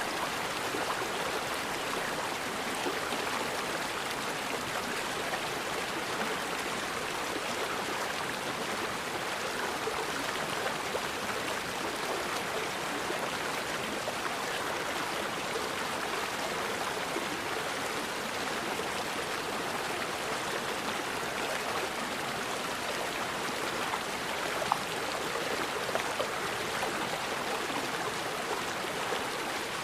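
Forest river flowing: a steady, even rush of water, with two brief louder blips a little past three-quarters of the way through.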